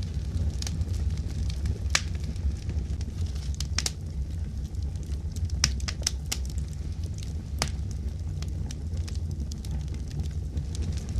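Wood fire crackling in a fireplace: a steady low rumble of the flames with scattered sharp pops and snaps, several louder ones in the middle.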